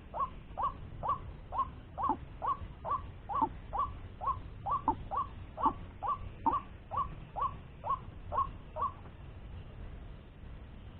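White-breasted waterhen (wak-wak bird) calling: a long run of short, evenly repeated notes, about two a second, that stops about nine seconds in.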